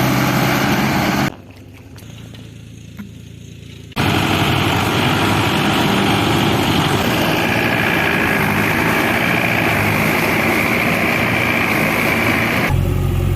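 Heavy diesel vehicle engine running, cut together in short pieces: the sound drops suddenly to a quieter stretch about a second in, comes back loud after a few seconds, and switches to a deeper, steadier engine hum near the end.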